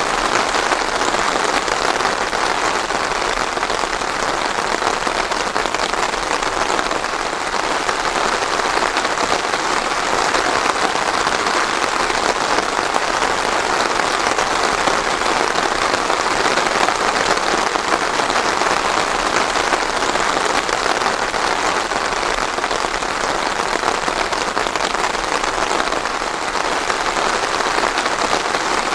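Steady rain falling on a surface, an even dense patter with no thunder.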